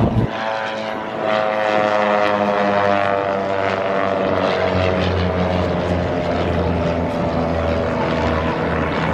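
Propeller-driven aircraft flying past, its engine note sliding down in pitch during the first few seconds and then carrying on as a steady drone.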